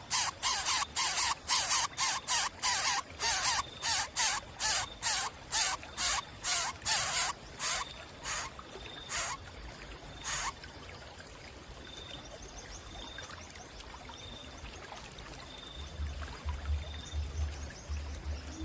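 Young predatory bird chicks giving rapid, harsh hissing begging calls, about two a second, which thin out and stop about ten seconds in. After that come faint, short high peeps at about one a second.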